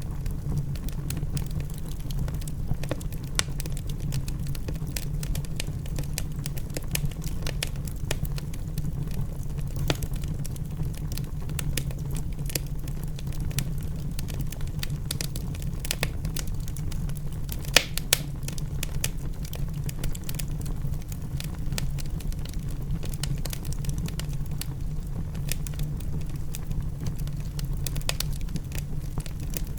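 Wood fire in a fireplace crackling, with frequent sharp pops over a steady low rumble; one louder pop comes about 18 seconds in.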